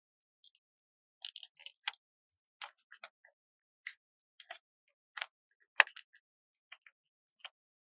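Stickers and sticker paper being handled: scattered, irregular small crisp clicks and crackles with short silences between, the loudest a little before six seconds in.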